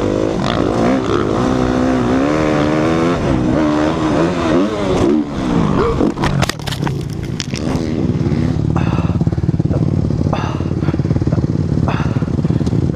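2014 Suzuki RM-Z250 dirt bike's single-cylinder four-stroke engine revving, its pitch rising and falling as it runs at a motocross double jump. About five seconds in comes a burst of sharp clattering knocks as the bike cases the landing hard, then the engine runs on steadily at a lower pitch.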